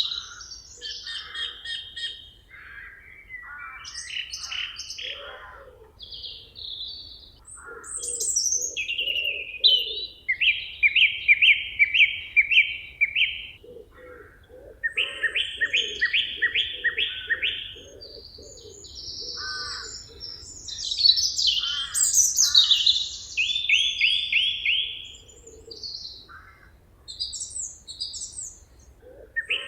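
Several songbirds singing over one another in a forest: fast trills of rapidly repeated notes alternate with short chirps and whistles, and a lower series of pulsing notes runs underneath at times.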